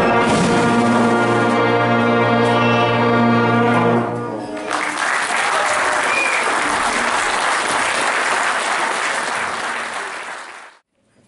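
Massed wind band holding a loud final brass chord, cut off together about four seconds in, followed by audience applause that stops suddenly near the end.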